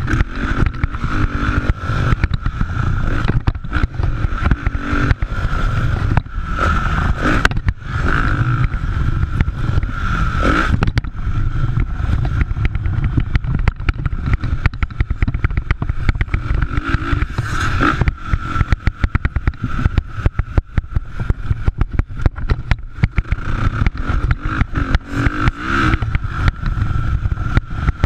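Motocross bikes' engines running at high revs, the engine note swelling and fading several times as bikes pass, over a constant heavy low rumble.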